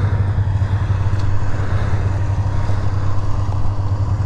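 Two-stroke snowmobile engine running steadily close by, held at an even speed with no revving.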